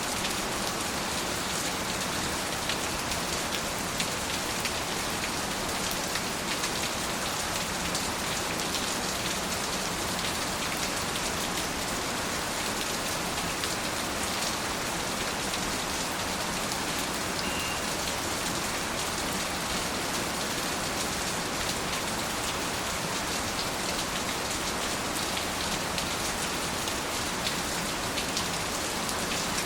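Steady rain falling, with a dense, even hiss and scattered individual drops ticking on surfaces.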